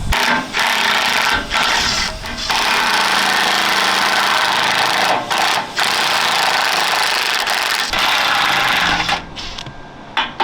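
Pneumatic air hammer rattling in several long bursts with short breaks, knocking pins and bolts out of steel armour plate. It stops about nine seconds in, leaving a few light clicks.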